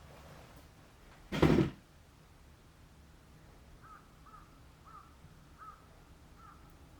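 One short, loud, harsh bird call about a second and a half in, followed by faint short chirps repeating every half second or so near the end.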